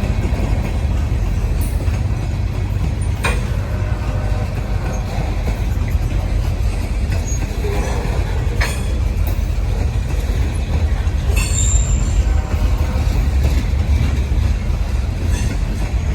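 Freight train rolling past at very slow speed: a steady low rumble, with a few sharp clicks and clanks from the wheels and couplers, and a brief high wheel squeal about twelve seconds in.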